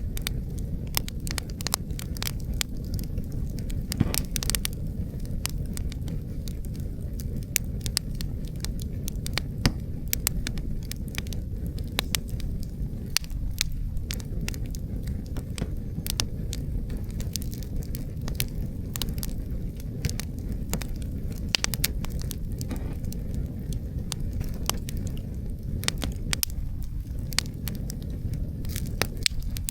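Wood fire crackling, with frequent sharp pops and snaps at irregular intervals over a steady low rumble of wind.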